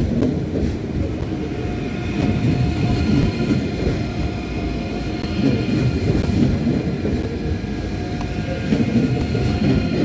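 A train moving along the platform track: a steady, loud rumble of wheels on rail, with faint high whining tones coming in about two seconds in.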